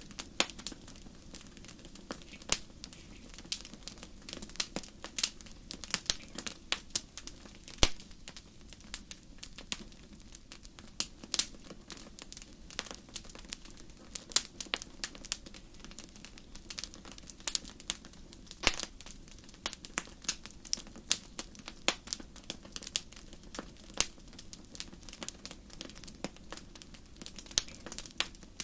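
Wood campfire crackling: irregular sharp pops and snaps, several a second, over a faint steady low background.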